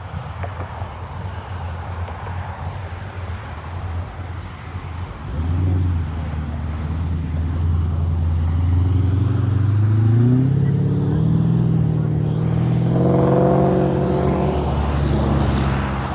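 A car engine comes in with a deep rumble about five seconds in and grows louder, its pitch rising twice as it is revved or accelerates, loudest around the last few seconds.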